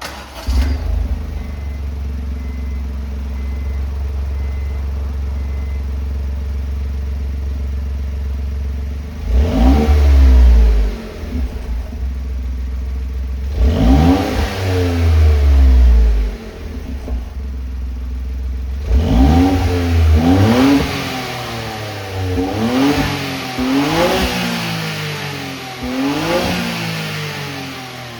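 Honda S660's 658 cc turbocharged three-cylinder engine breathing through an HKS Hi-Power SPEC-L aftermarket exhaust: it starts up, settles into a steady idle, then is revved twice at some length and blipped about six times in quick succession.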